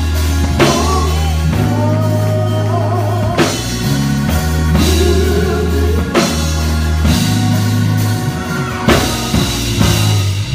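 Band music with a drum kit and sustained bass notes, and a wavering sung line over it.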